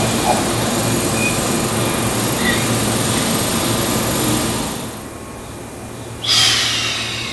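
Keihan electric train running at the station platform, a steady rumble and hiss that drops away about five seconds in. About a second later comes a sudden loud burst of hiss that fades out.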